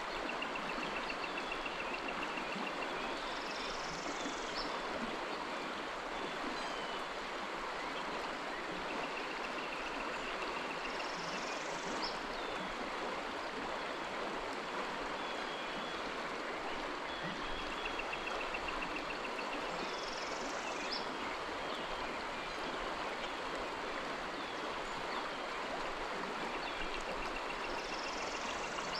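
Creek water running steadily with an even rushing hiss. A faint, short high trill recurs about every eight seconds.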